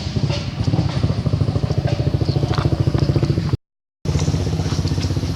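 A small engine running with a rapid, even low pulsing. It drops out abruptly for about half a second past the middle, then runs on.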